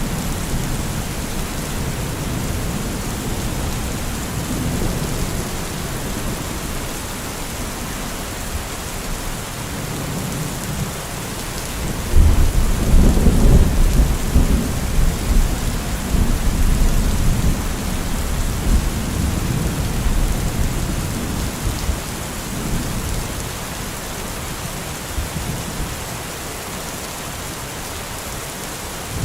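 Steady rain with thunder. A deep rumble of thunder comes in suddenly about twelve seconds in and rolls away over the following several seconds.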